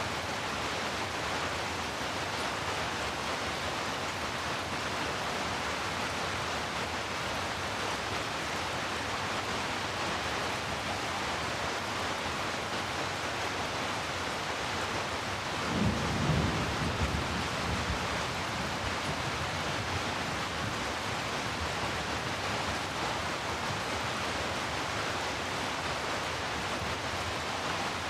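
Steady rain, an even hiss, with a low roll of thunder rising about halfway through and fading away over a few seconds.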